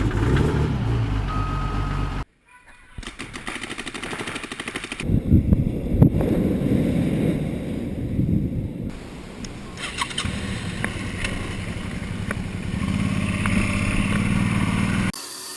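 1986 GMC's 6.2-litre V8 diesel engine running, in several clips cut together: a brief rev at the start, a sudden cut-out about two seconds in, then the engine coming back up and settling into a steady idle.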